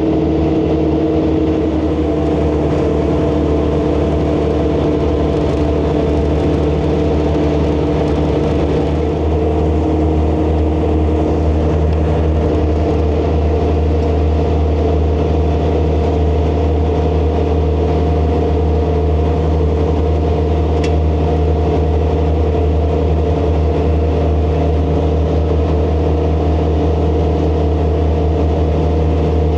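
ASV RC100 compact track loader's diesel engine running steadily under load while it drives a hydraulic snowblower attachment, with a slight change in engine pitch about nine seconds in.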